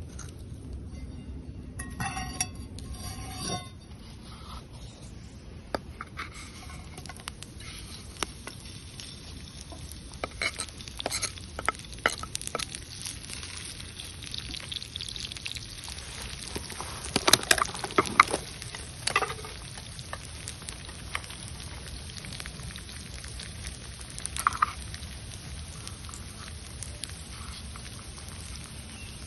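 Food frying over a campfire: a steady sizzle with scattered clicks and scrapes of a utensil, and a denser cluster of clicks a little past halfway.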